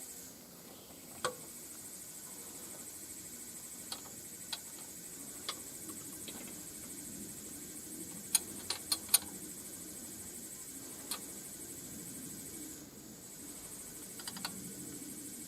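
Sparse sharp clicks and knocks of hand tools working on the car, with a quick run of four about eight seconds in. Under them is a steady high chirring of insects.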